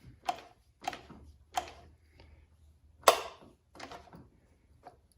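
A series of sharp metallic clicks, about one every two-thirds of a second, from the outboard motor's ignition parts being worked by hand. The loudest click comes about three seconds in.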